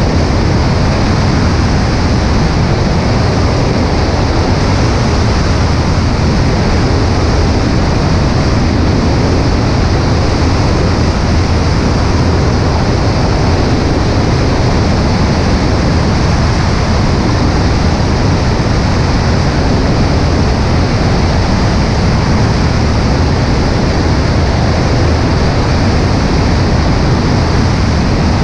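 Cessna 140A's engine and propeller running steadily in flight, with the rush of airflow over a wing-mounted microphone. The sound is loud and unchanging.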